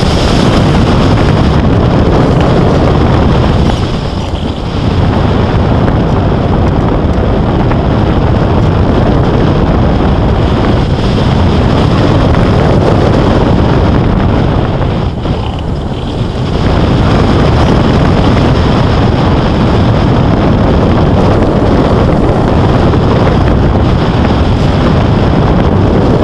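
Loud wind rushing over the microphone, a steady roar of air that eases briefly twice.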